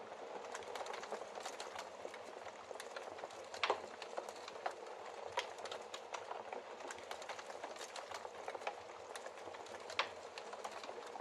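Logs burning in a fireplace, crackling with a steady hiss and frequent small pops, two sharper pops standing out about a third of the way in and near the end.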